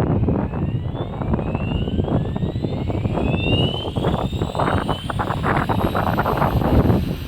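Light aircraft engine running at high power, its pitch rising over the first few seconds, under heavy wind buffeting on the microphone.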